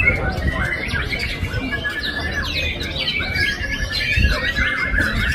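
White-rumped shama (murai batu) singing a fast, unbroken song of varied whistles and chattering notes that glide up and down in pitch, over a low background rumble.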